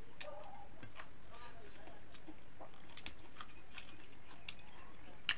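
Close-up eating sounds: scattered soft clicks and smacks of chewing and lips as rice and chicken curry are eaten by hand, with fingers working the food on the plates.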